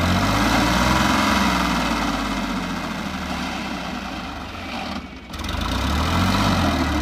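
Sonalika tractor's diesel engine running, swelling in pitch and loudness in the first second or two, easing back, dipping briefly just after five seconds, then swelling again.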